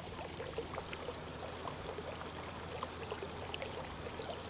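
Running water trickling steadily, with many small splashes and bubbles, over a low steady hum.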